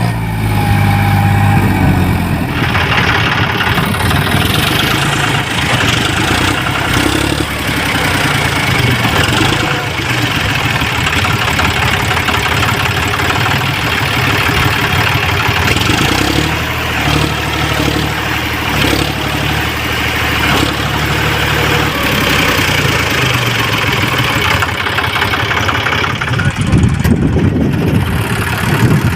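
John Deere 5045D tractor's diesel engine running steadily, with a loud rushing noise laid over it from about two seconds in.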